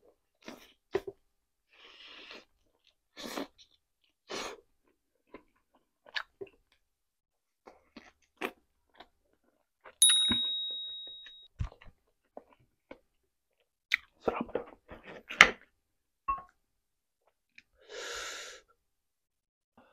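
Close-up eating sounds: chewing and biting of rotisserie chicken, with scattered wet clicks and a few short breathy bursts. About ten seconds in, a single bright ding rings out and dies away over about a second and a half.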